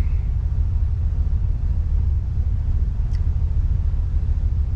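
Steady low rumble of a vehicle on the move, heard from inside the cab: engine and road noise, with a faint click about three seconds in.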